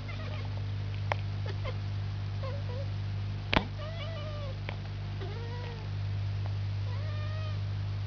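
A house cat making a series of short, arching, bird-like calls while watching birds, over a steady low hum. A single sharp click about halfway through is the loudest sound.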